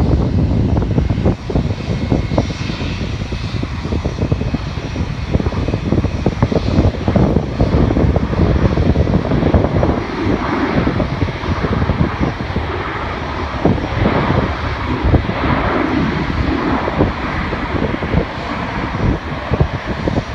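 Jet airliner engines running, with a thin high whine in the first few seconds, heard under heavy wind buffeting the microphone.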